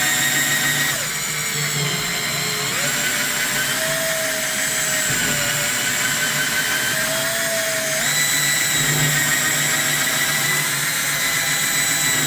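Power tool spinning a brush inside the valve body to clean it out, running continuously, its pitch dipping and rising a few times as it bears on the work.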